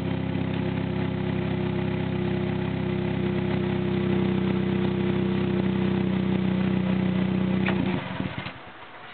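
2008 Pontiac G5's four-cylinder engine idling steadily with its exhaust pipe and muffler removed, so the exhaust is open and unmuffled. Near the end the engine is switched off and the sound dies away within about a second.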